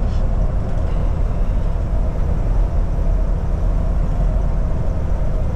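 Steady low rumble of a Kenworth T680 semi-truck heard from inside the cab while cruising at highway speed: engine and road noise with a faint steady hum above it.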